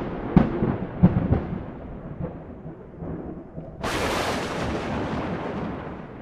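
Thunder: a few sharp cracks in the first second or so, a rolling rumble, then a loud crash about four seconds in that slowly fades.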